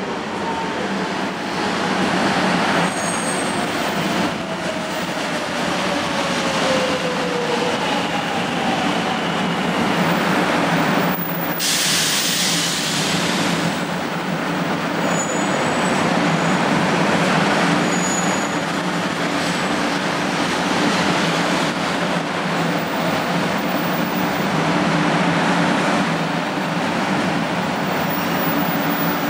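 500 series Shinkansen electric train rolling slowly past a platform as it slows to a stop, a continuous rumble of wheels on rail. A whine falls in pitch over the first several seconds as it slows, and a short hiss comes about twelve seconds in.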